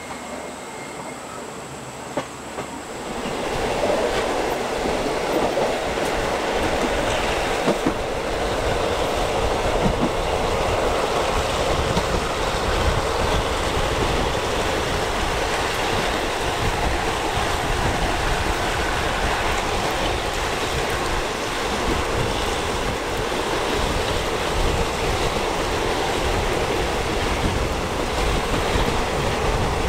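Passenger train coach running along the track, heard from on board: a steady rumble of wheels on rails with a few sharp knocks. The noise gets noticeably louder about three seconds in and then stays steady.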